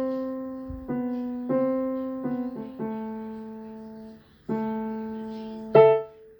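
Piano playing a slow simple melody, mostly one note at a time, each note struck and left to fade. After a short pause near four seconds, it ends with a held note and then a loud final note that is cut off quickly.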